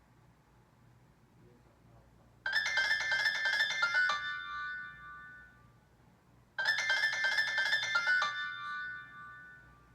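iPhone 6s Plus ringtone: a short phrase of quick chiming notes that ends on a held note, played twice, about four seconds apart, starting about two and a half seconds in.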